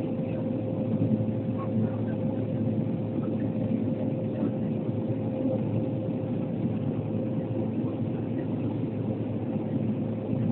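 Cabin noise of an Antonov An-140 twin-turboprop airliner: steady drone of the engines and propellers with an unchanging hum-like tone running through it.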